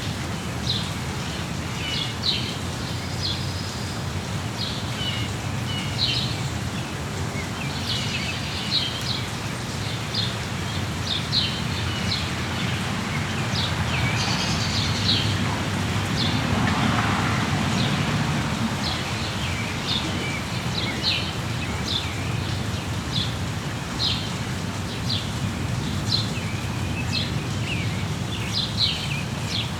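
Steady rain falling, with birds chirping over it: many short, high chirps throughout. A louder rush swells for a few seconds in the middle.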